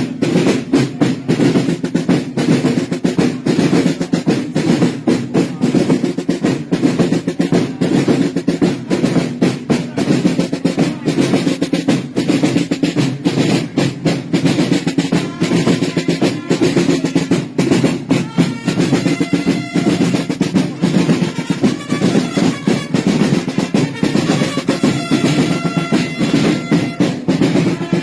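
Snare-type parade drums playing a continuous rapid roll. Held pitched notes join in over the drumming from about halfway.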